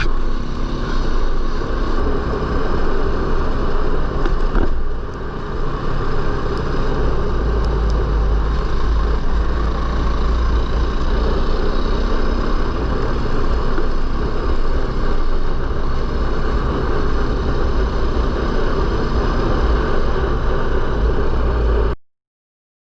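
A 450cc four-stroke single-cylinder dirt bike engine runs under way while riding, with heavy wind buffeting on the microphone. It cuts off suddenly near the end.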